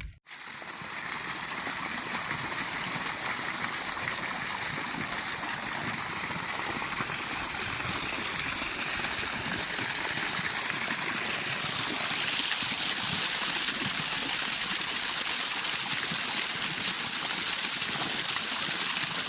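Water running steadily, an even rushing flow that gets slightly brighter partway through.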